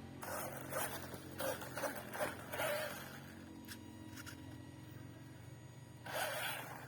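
Small RC drift car running, with a steady low motor hum and short bursts of tyre scrub as it slides, several in the first three seconds and one more about six seconds in.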